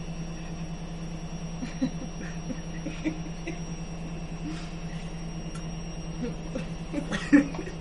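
A car engine idling steadily as the car manoeuvres at low speed, with faint scattered voices and a sharp knock near the end.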